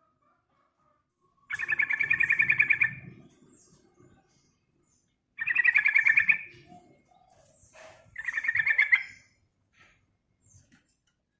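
Yellow-vented bulbul (trucukan) giving three bursts of rapid chattering calls, each about a second long: one about a second and a half in, one a little past the middle and one near the end.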